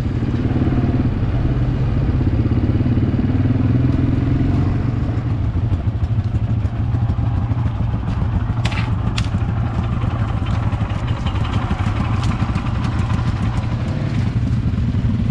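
Quad bike (ATV) engine running steadily under way while riding, with a few sharp knocks and rattles about halfway through.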